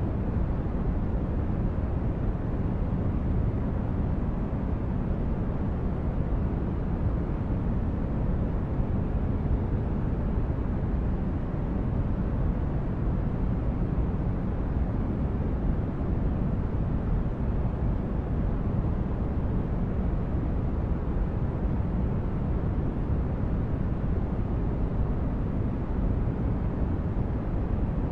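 Continuous steady noise of a sleep-aid noise track, deep-toned and weighted toward the low end, with no change or events.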